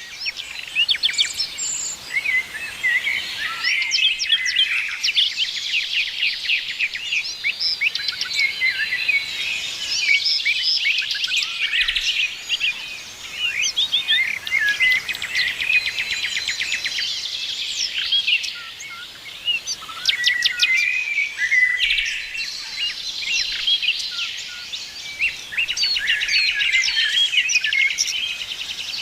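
Many small birds chirping and calling at once: a dense, unbroken chorus of short, high chirps and quick trills.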